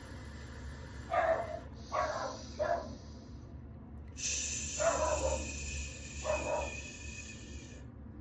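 A dog barking five times in short barks, over a person exhaling in a long, steady hiss on an 'S' sound, starting about halfway through, as a breathing exercise.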